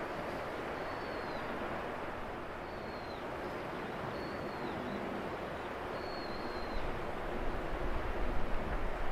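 A bird gives a short, high whistled call that dips at the end, four times at intervals of about one and a half to two seconds, over a steady rush of wind and sea. From about two thirds of the way in, wind gusts buffet the microphone with an uneven low rumble.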